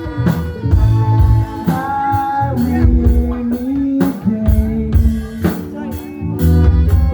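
A rock band playing loudly: drums keeping a steady beat under guitar and long held melody notes.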